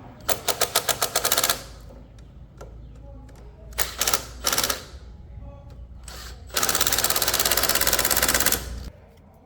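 Impact wrench hammering in three bursts: a short stuttering run, a couple of brief blips about four seconds in, then a sustained two-second run.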